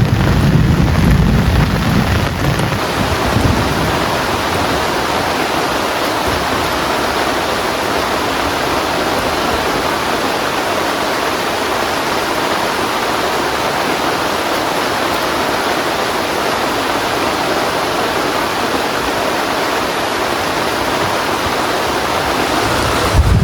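Heavy rain falling steadily, a dense even hiss. A low thunder rumble fades away over the first two to three seconds.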